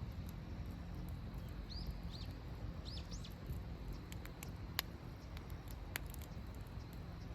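Four quick bird chirps in close succession, each a short arched note, over a steady low rumble, with sharp clicks and pops scattered throughout, the loudest near the middle and about six seconds in.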